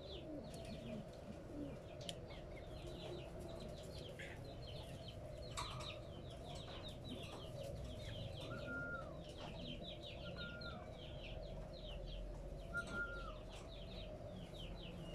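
Birds calling at a fairly low level: continuous rapid high chirping, with a few short whistled notes and clucking.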